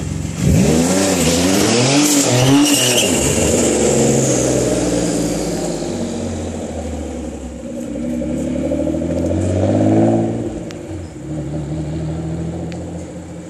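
Twin-turbo Infiniti G35's V6 revved hard as the car pulls away, its pitch rising and falling several times over the first few seconds. About eight to ten seconds in it climbs again, then drops off and fades as the car moves into the distance.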